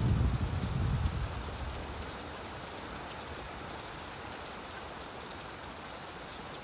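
Steady rainfall, with a low rumble that dies away over the first second or two.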